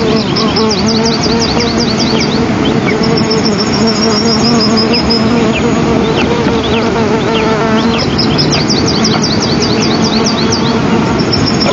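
A small songbird singing the same phrase twice: a run of about ten quick, high descending notes followed by a thin trill. Scattered single downslurred chirps and a steady noisy hum run underneath.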